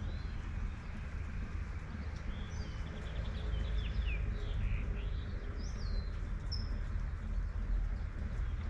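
Several quick bird chirps and whistles, clustered in the middle, over the steady hiss of light rain and a constant low rumble of city traffic.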